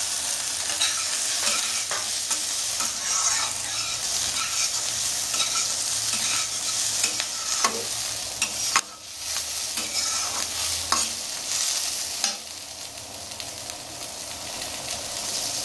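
Cubed potatoes and sliced onion sizzling in hot mustard oil in a wok, with a metal spatula scraping and knocking against the pan as they are stirred. One sharp knock comes a little past the middle, and the sizzle is quieter in the last few seconds.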